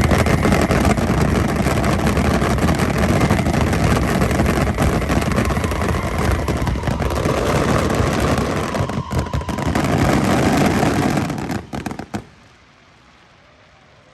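Aerial fireworks barrage: a dense, continuous run of bursts and crackling, thinning to a few last cracks and stopping abruptly about 12 seconds in.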